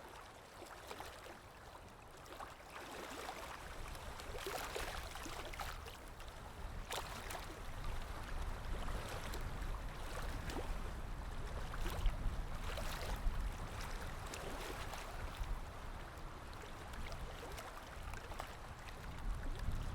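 Water lapping and splashing gently, with wind blowing; the lapping grows louder a few seconds in, and a low wind rumble builds near the end.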